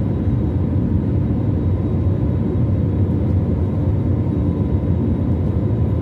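Steady aircraft engine and airflow rumble heard from inside a passenger plane's cabin during the climb after takeoff, with a faint steady whine above it.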